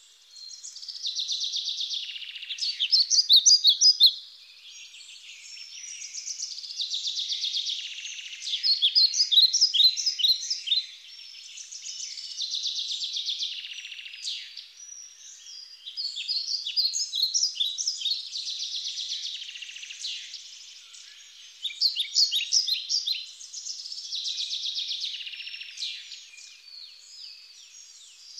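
A songbird singing in repeated phrases, each a buzzy warble followed by a quick run of short chirps, coming round every five seconds or so.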